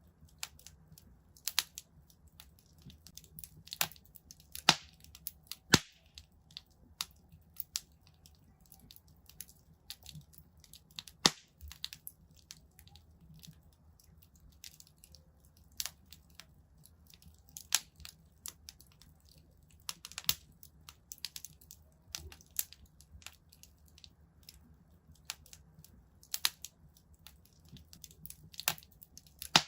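Wood fire crackling in a fireplace: irregular sharp pops and snaps, a few loud ones, over a steady low rumble.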